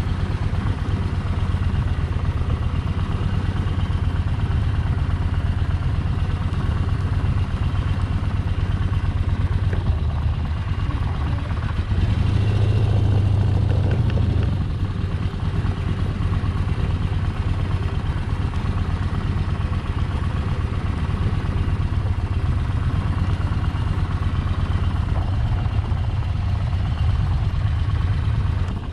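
Motorcycle engine running steadily, with a brief swell in level about twelve seconds in that fits the engine being opened up, then cutting off abruptly at the end.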